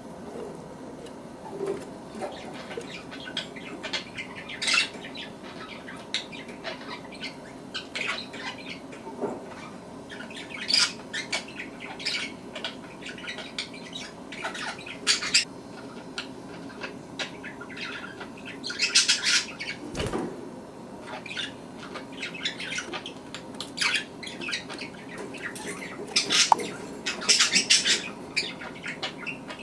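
Budgerigar chicks squeaking in short, irregular bursts, busier in places, with a single knock about twenty seconds in.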